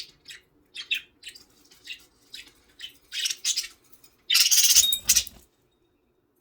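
Budgies chirping in a string of short calls, then a louder, denser burst of chatter about four seconds in that cuts off abruptly.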